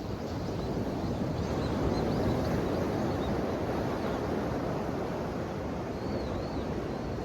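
Ocean waves washing ashore: a steady rush of surf that swells about a second in and slowly eases off.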